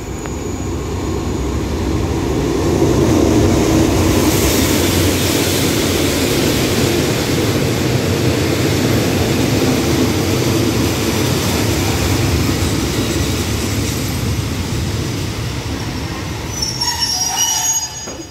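Commuter train pulling into a station: the coaches' steel wheels rumble along the rails, loudest a few seconds in. Near the end the brakes squeal in several high tones, and the noise drops off suddenly as the train comes to a stop.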